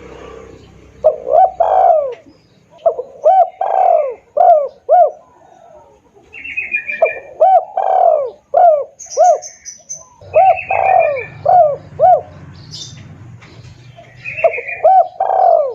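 Spotted dove (tekukur) lure call: loud, clear cooing phrases of several quick arched notes, repeated about every three to four seconds, five phrases in all. Short higher chirps come between the phrases.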